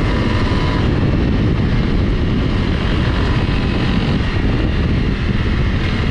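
A Honda CRF Rally dual-sport motorcycle's single-cylinder engine running steadily while it is ridden on a dirt track, heard as a loud, even rumble.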